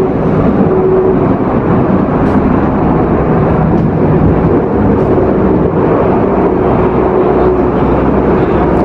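Running KTM ETS electric train heard from inside, between the coaches and in the aisle: a loud, steady rumble and rushing noise with a steady hum.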